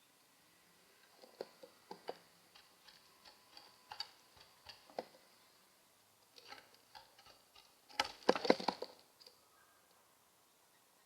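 Scattered light clicks and taps, with a louder cluster of rapid taps and scrapes about eight seconds in.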